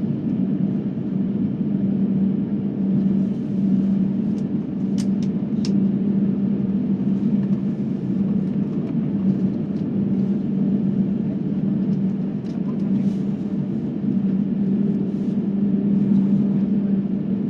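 Steady drone of an airliner's jet engines and airflow heard inside the passenger cabin, with a constant low hum under it. A few faint clicks about five seconds in.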